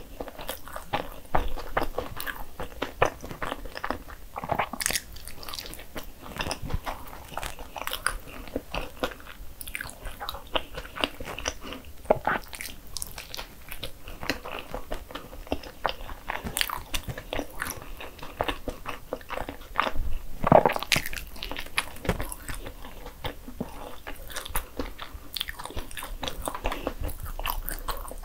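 Chewing and biting into a dense cream-filled bagel sandwich: irregular small clicks and moist mouth sounds throughout, with one louder bite about three-quarters of the way through.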